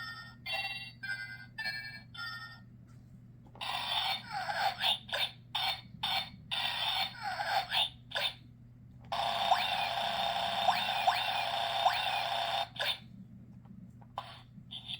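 Sound-book button sound chip playing a tinny electronic tune of short, evenly spaced notes. About three seconds in it switches to a string of choppy noisy sound effects. About nine seconds in a steady hissing effect with a few chirps starts, and it stops near the end.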